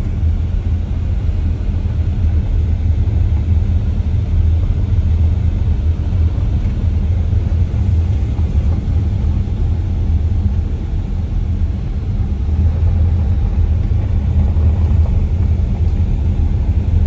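A car being driven: a steady, loud low rumble of engine and road noise.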